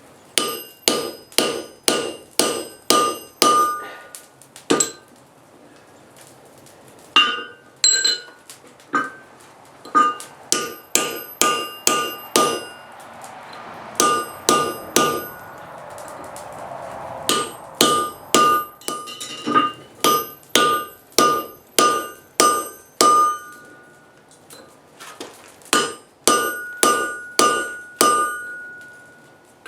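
Blacksmith's hand hammer striking steel on an anvil in runs of quick blows, about two to three a second, each blow ringing. There are short pauses between the runs.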